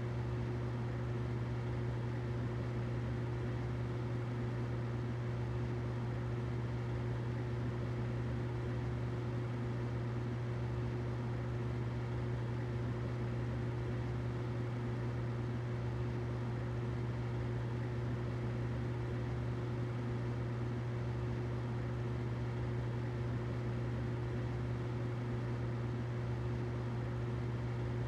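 Humidifier running steadily: a constant low hum with a thin higher tone over a soft, even hiss.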